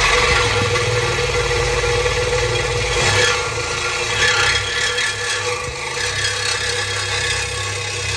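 Reciprocating saw running steadily, its blade cutting through the stock exhaust tailpipe under the car.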